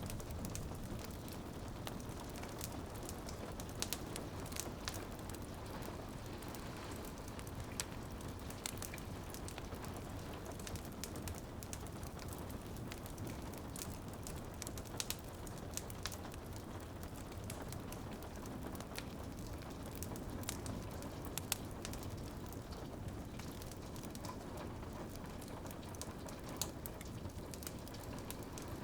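Wood fire crackling, with irregular sharp pops and snaps, over a steady hiss of rain on a window.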